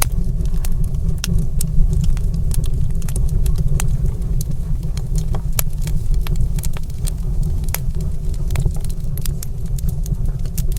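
Wood fire crackling in a fireplace: a steady low rumble of burning with frequent, irregular sharp pops and snaps.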